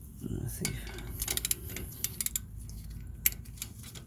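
Steel hand tools, a wrench and ratchet, clinking against each other and the brake caliper while a caliper bolt is tightened by hand. A quick run of light metallic clicks comes about a second in, with a few more scattered clicks later.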